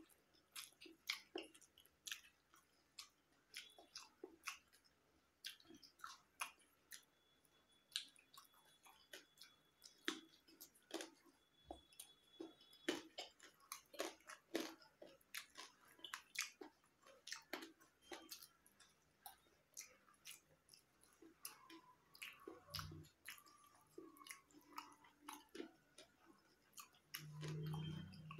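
Close-miked chewing and wet mouth sounds of a person eating soft rice, boiled egg and boiled spiny gourd by hand: a steady run of short smacks and clicks, one to three a second. A short, louder low sound comes near the end.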